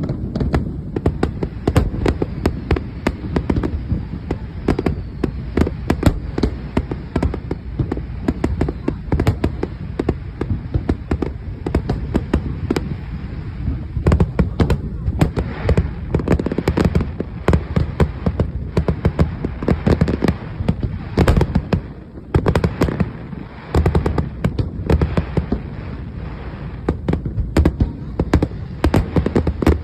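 Aerial fireworks display in a dense, near-continuous barrage: many sharp bangs and crackles in quick succession over deep low rumbling, with a brief lull about two-thirds of the way through.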